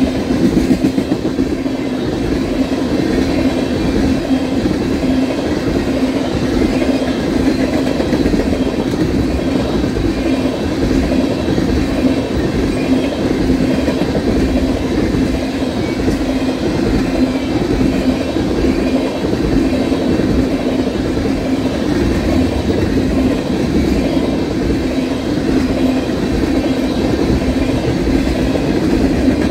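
Freight train of tank cars rolling past: a steady rumble of steel wheels on rail, with the clickety-clack of wheels passing over rail joints.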